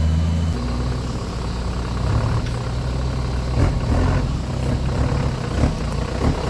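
Off-road vehicle's engine running at low revs, its note shifting about half a second in, with a few knocks as it works.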